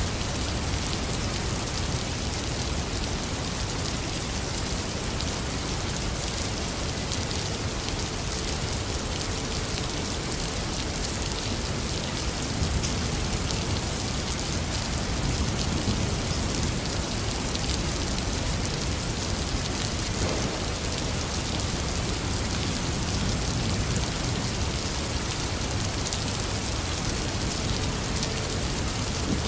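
Heavy rain falling steadily, a dense even hiss of drops on surfaces, with a low rumble of thunder swelling around the middle.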